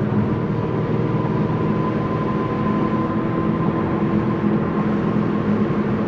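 Tuned Audi S6 driving at a steady cruise: engine drone holding an even pitch over road and tyre noise.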